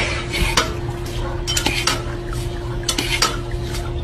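Irregular clinking and scraping, like utensils or a bowl knocking against dishes, over a steady hum.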